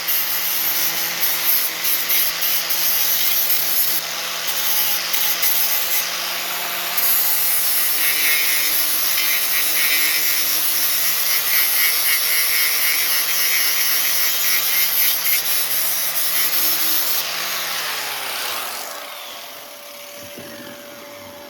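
Angle grinder grinding a welded steel body repair, its motor whining at a steady pitch under harsh grinding noise. Near the end it is released and spins down.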